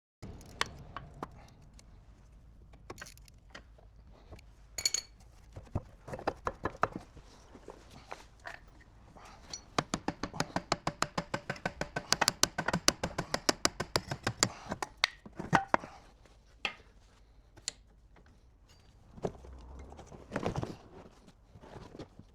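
Hand tools working on a car: scattered metal clicks and knocks, then a run of quick, even ratchet-wrench clicks, about six a second, from about ten seconds in for some five seconds.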